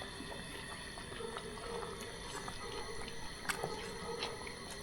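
A steady watery sound, like running or bubbling water, with scattered faint clicks.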